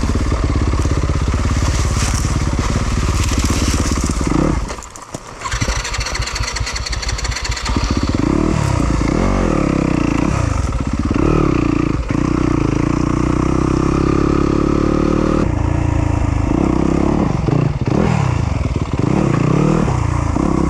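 Yamaha YZ250FX 250cc four-stroke single-cylinder dirt bike engine, revving up and down over and over. It drops away briefly about five seconds in, then picks up again.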